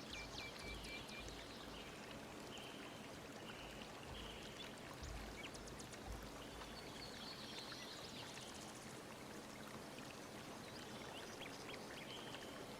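Faint flowing water, like a stream or waterfall, with scattered short bird chirps over it.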